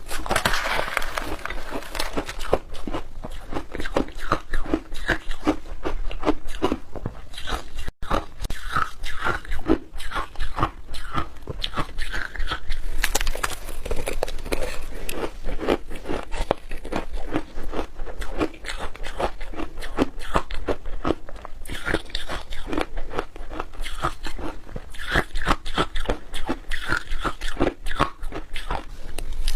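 Close-miked crunching and chewing of shaved ice made from frozen milk powder, in a fast, continuous stream of crisp bites and crunches.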